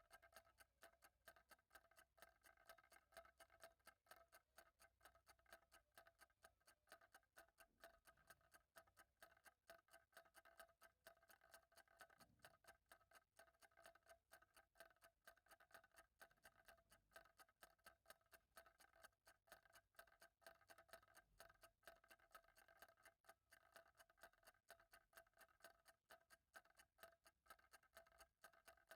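Faint clock ticking at an even, steady rate.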